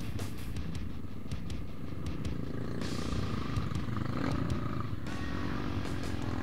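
Trail motorcycle engine running steadily, with a rush of noise from about three to five seconds in.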